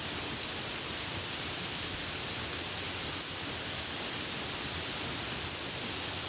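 Rain falling steadily, an even hiss with no breaks and no thunder.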